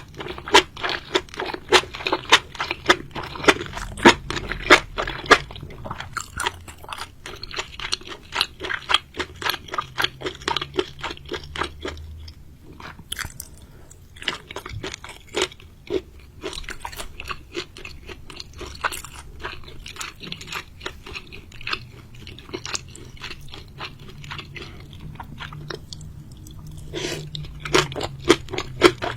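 A person chewing crunchy seafood close to the microphone: rapid, continuous crunches and bites, easing off briefly twice before picking up again.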